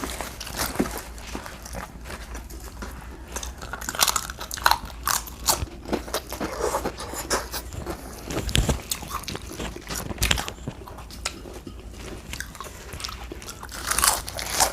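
Close-miked eating: irregular crunchy bites and chewing, with sharp crackly snaps scattered throughout.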